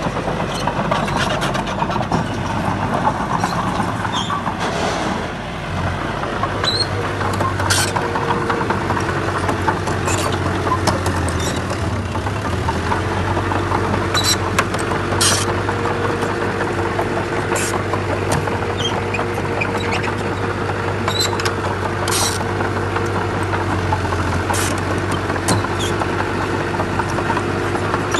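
Heavy construction-machine diesel engine running steadily, with a held higher whine joining in about halfway through and many short sharp clanks and clicks throughout.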